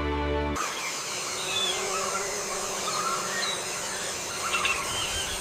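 A held music chord cuts off abruptly about half a second in, giving way to an outdoor nature ambience: a steady hiss with faint, scattered high chirps of small birds or insects.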